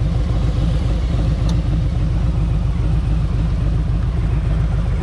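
Harley-Davidson Street Glide Special's Milwaukee-8 107 V-twin running at a steady cruising speed through a Tab Performance exhaust, under steady wind rush.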